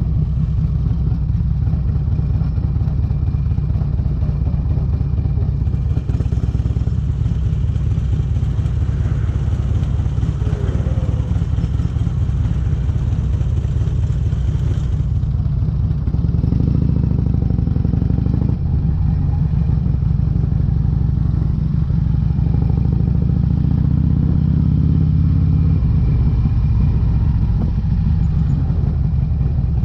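Harley-Davidson Electra Glide's Twin Cam 96 V-twin running under way through Vance & Hines aftermarket exhaust pipes: a steady, loud, deep exhaust rumble that grows fuller about halfway through.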